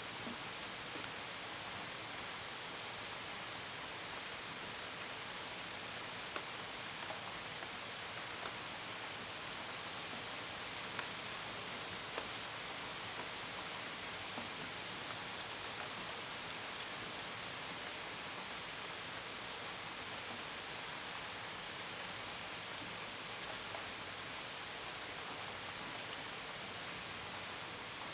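Steady rain hissing, with scattered drops ticking sharply against a window and gutters. Crickets chirp faintly behind it in short, evenly repeated pulses.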